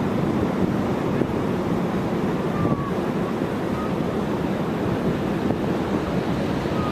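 Wind buffeting the microphone over the steady rush of sea surf breaking on the beach.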